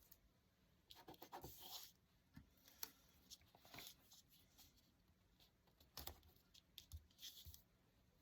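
Soft, scattered rustles and scratches of paper being handled, in short clusters: about a second in, near four seconds, and again around six to seven and a half seconds.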